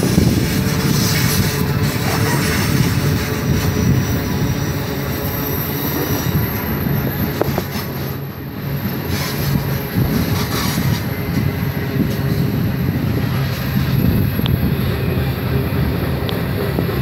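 CN freight train of covered hopper cars rolling slowly past, with a steady rumble and clatter of wheels on the rails and a faint high wheel squeal at times.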